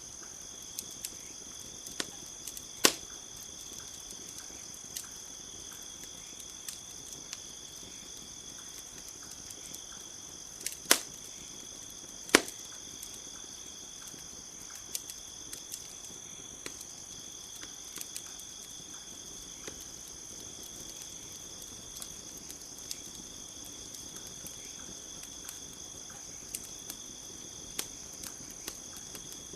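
Campfire crackling with scattered sharp pops, the loudest about three, eleven and twelve seconds in, over a steady high chirring of crickets.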